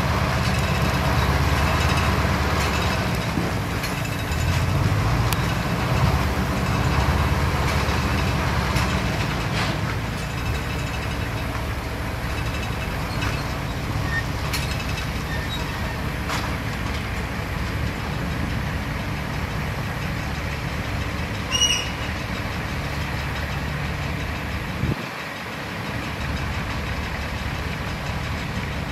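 Diesel engines of heavy construction machinery running steadily, with a short high-pitched tone sounding once about three-quarters of the way through.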